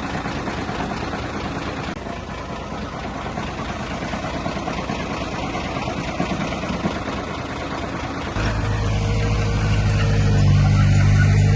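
Heavy diesel earthmoving machinery running with a rough, noisy engine sound. A little past eight seconds in it cuts abruptly to a louder, steady engine drone with a clear low pitch.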